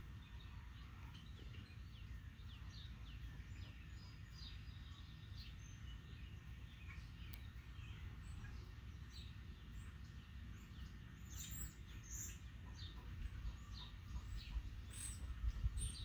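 Small birds chirping: many short, high chirps scattered throughout, a few louder ones past the middle, over a low steady rumble.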